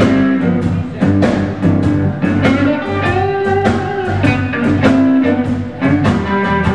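Live blues band playing an instrumental passage between sung lines: electric guitar over bass and a steady drum beat.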